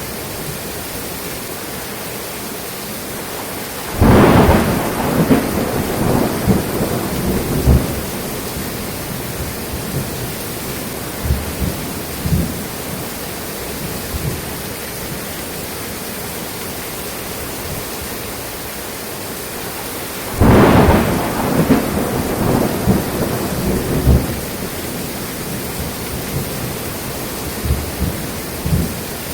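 Steady rain with a thunderstorm: two claps of thunder, one about four seconds in and one about twenty seconds in, each starting suddenly and rumbling on for about four seconds, with fainter rumbles in between.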